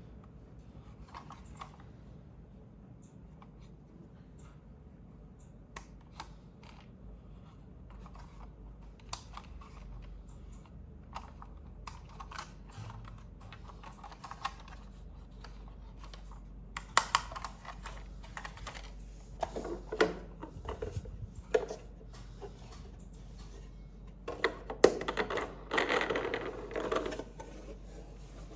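Hands handling plastic RC toy parts and packaging: scattered light clicks and taps, with denser, louder bursts of clicking and rustling about two-thirds of the way in and again near the end.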